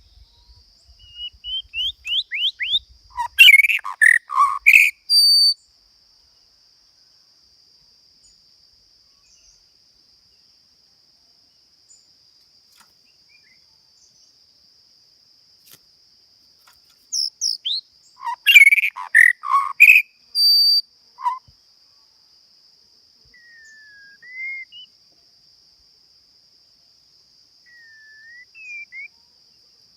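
A songbird singing in two loud bursts, one about a second in and one about 17 seconds in. Each burst opens with a quick run of rising whistled notes and ends in louder, fuller phrases. Softer single calls follow near the end, over a steady high-pitched whine.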